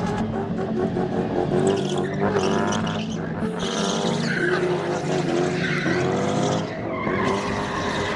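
Car engine revving hard with the pitch sweeping up and down several times, over the skid and squeal of spinning tyres as the car is spun and drifted.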